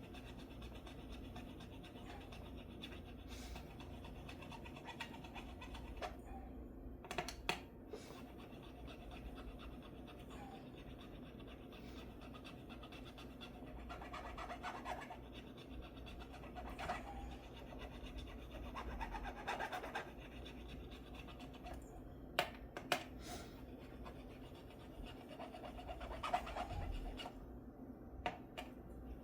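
Soft intermittent scraping strokes of an abrasive or file on guitar frets, taking down a couple of slightly high frets, with a few sharp clicks of the tool against the metal.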